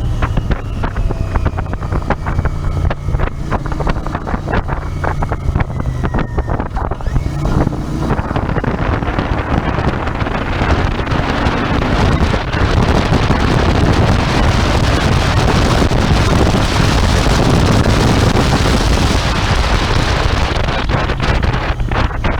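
Royal Enfield Interceptor 650's parallel-twin engine running on the move, with wind buffeting the microphone. About eight seconds in the wind noise swells and drowns most of the engine, then eases near the end.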